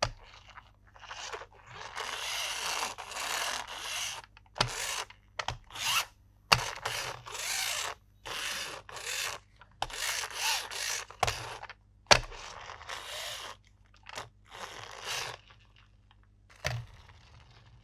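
Toy packaging being handled and opened: repeated bursts of crinkling and tearing plastic and cardboard, broken by a few sharp clicks or snaps.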